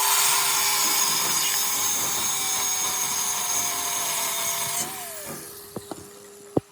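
An electric power tool runs steadily with a motor whine, then is switched off about five seconds in and winds down with falling pitch. A few sharp clicks follow, the last one loud, near the end.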